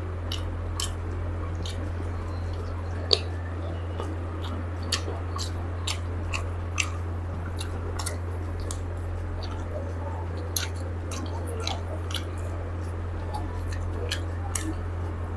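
Close-miked biting and chewing of a chicken leg piece: irregular wet mouth clicks and smacks, several a second, over a steady low hum.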